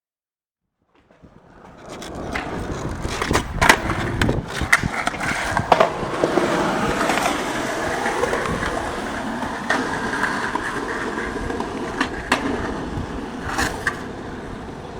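Skateboard wheels rolling over pavement, starting about a second in and building to a steady rumble, with several sharp clacks and knocks of the board along the way.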